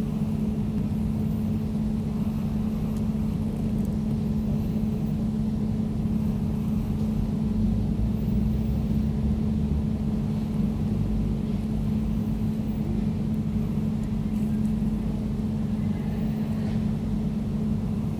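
Air conditioner running steadily: an even low hum from its compressor and fan with a rumbling, airy noise beneath.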